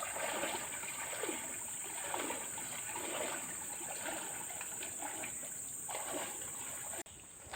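Water splashing and trickling in repeated strokes about once a second, over a steady high-pitched insect drone. The sound cuts off abruptly near the end.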